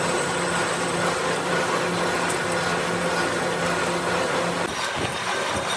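Workshop machine tool running, a steady mechanical noise with a constant hum that drops out about four and a half seconds in.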